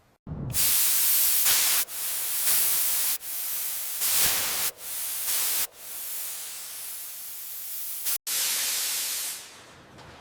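Compressed air hissing from a shop air tool in a series of bursts of a second or two each, with brief breaks between them.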